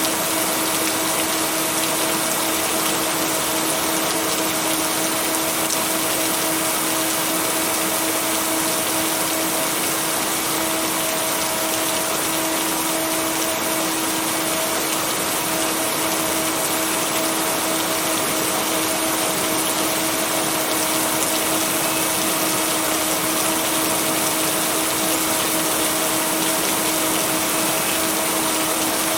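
Steady rain, an even hiss of falling water with no swells or thunder claps, mixed with a constant low hum of steady tones from blended binaural beats.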